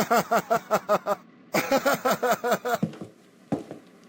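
A voice making two quick runs of short, evenly spaced syllables, rising and falling in pitch, like a laugh.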